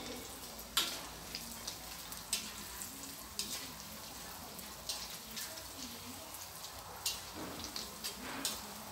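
Battered shrimp sizzling in hot oil in a steel wok, with a spatula scraping and clinking against the wok now and then as they are stirred.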